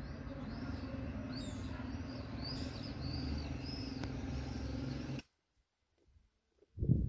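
Evening outdoor ambience: small birds chirping over and over high above a steady low hum. It cuts off abruptly about five seconds in to near silence, and a short loud low sound comes near the end.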